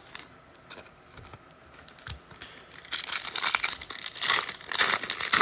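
Foil trading-card pack wrapper being torn open and crinkled: a few faint handling clicks, then about two seconds in before the end, a dense run of crackling and tearing.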